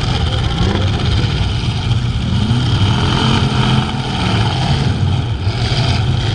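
Engines of several full-size pickup trucks and vans racing, running loud with a low rumble, with a few revs climbing in pitch around the middle.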